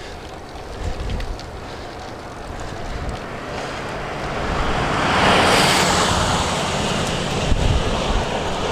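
Wind buffeting the microphone of a bike-mounted camera while riding into a headwind, a rough low rumble. A rushing swell builds about halfway through and eases off again.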